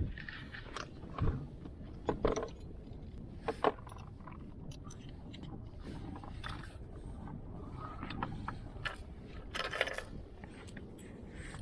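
Scattered metallic clicks and rattles of freediving weights and carabiners being handled and rigged, coming irregularly over several seconds.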